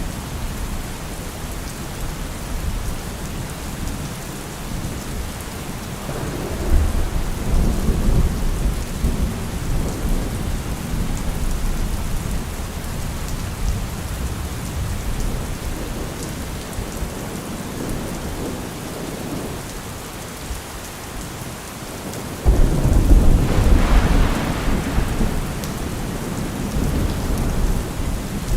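Steady rain with rolling thunder: a rumble swells up about six seconds in, and a louder clap breaks suddenly near the end and rumbles away over a few seconds.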